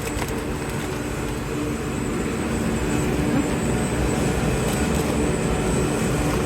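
Steady low rumble with a faint hum: the background noise of a large warehouse store, fans and refrigerated dairy cases running.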